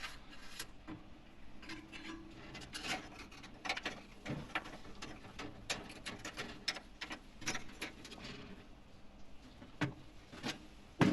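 Irregular light clicks and taps of metal oven parts being handled while thermostat probes are fitted back into the oven, with a louder knock near the end.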